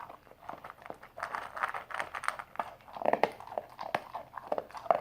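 A puppy mouthing and chewing: irregular wet clicks and crunching bites.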